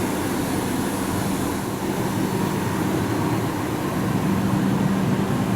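Steady mechanical drone: a continuous rushing noise with a low, constant hum underneath.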